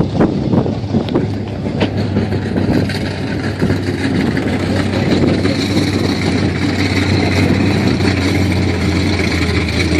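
Vehicle engines running hard and steadily, a constant low drone with a higher whine above it. Several sharp knocks come in the first couple of seconds.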